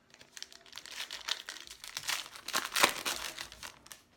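Foil wrapper of a Panini Donruss baseball card pack crinkling as it is opened and handled, with louder crackles about two seconds in and near the three-second mark.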